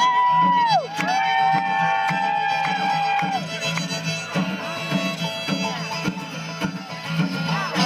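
Live bluegrass band playing an instrumental lead-in. A fiddle holds long notes that slide down at their ends over a steady, pulsing guitar-and-bass rhythm.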